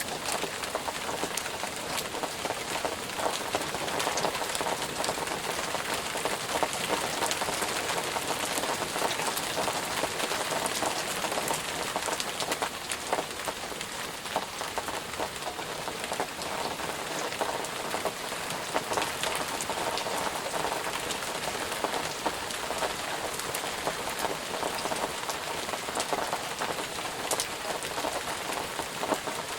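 Steady rainfall, with the pattering of individual drops striking a surface heard through an even hiss of rain.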